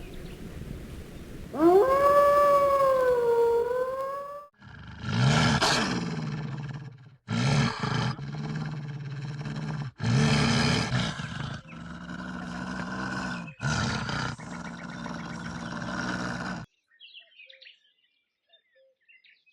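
Wolf howling once with a wavering pitch, then several rough, low growling bursts that stop suddenly about three seconds before the end.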